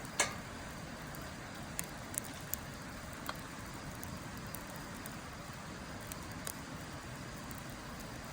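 Wood fire burning in a Snow Peak Takibidai L fire pit, crackling: one sharp pop just after the start, then scattered smaller snaps. A steady rushing noise runs underneath.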